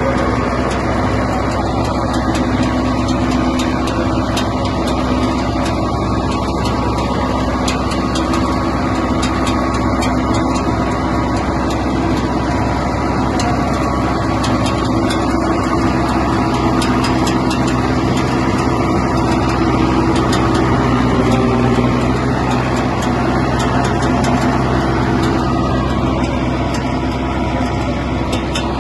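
Mahindra Arjun Novo 605 tractor's diesel engine running steadily under load while pulling a seed drill, with many faint ticks over the engine note.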